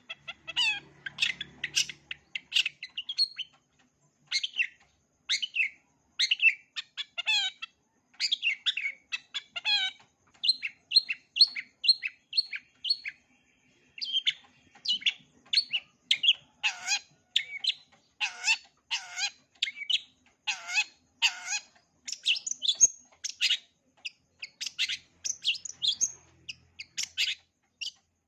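Long-tailed shrike singing a fast, varied song of short chirps and whistled notes in quick runs with brief pauses, full of mimicked calls of other birds; in the middle some notes sweep steeply downward.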